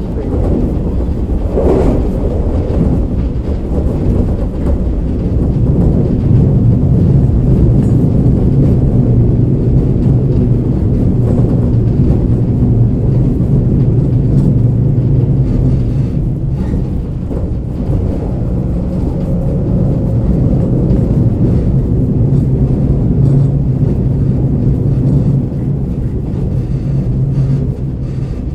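Inside a JR KiHa 47 diesel railcar on the move: the diesel engine running with a steady low drone over wheel and rail noise, muffled as if heard from inside a pocket. A brief falling tone sounds about two seconds in, and the drone eases a little near the end.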